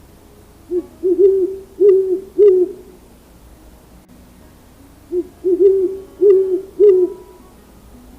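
An owl hooting: two series of about five low hoots each, one about a second in and another about five seconds in.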